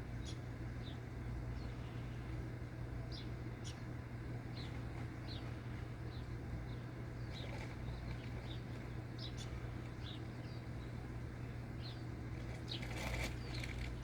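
Short, high bird chirps, one every second or so, over a steady low hum and hiss; a louder brief noise comes about thirteen seconds in.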